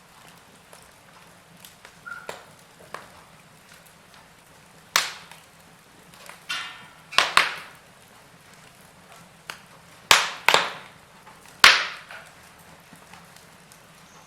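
Wood fire crackling in a fireplace: irregular sharp pops and snaps over a faint steady background, the loudest pops coming in the second half.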